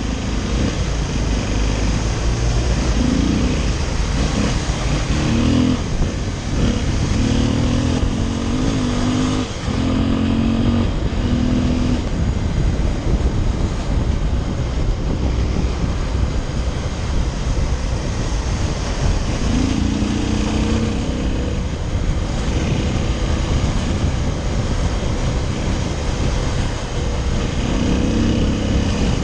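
Motorcycle running while being ridden, its engine note shifting in pitch a few times, under a steady rush of wind on the microphone.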